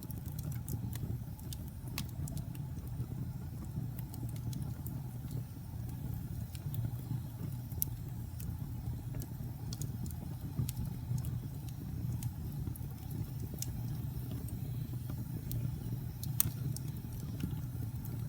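Wood fire crackling in a fireplace: a steady low rumble of burning with scattered, irregular sharp pops and snaps, one louder pop near the end.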